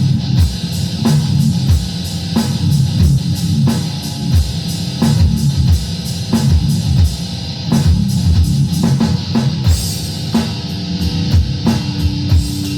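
Rock band playing an instrumental passage: guitar and bass over a drum kit keeping a steady beat.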